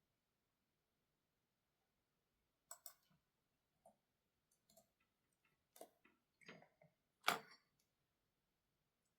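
Near silence, then from about two and a half seconds in a few scattered, irregular clicks and light taps of small objects being handled on a desk, the loudest one about seven seconds in.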